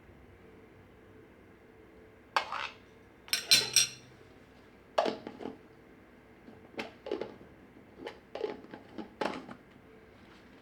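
Kitchen utensils knocking and clinking against dishes: a scattered series of taps and clatters, the loudest, with a brief ring, a little over three seconds in.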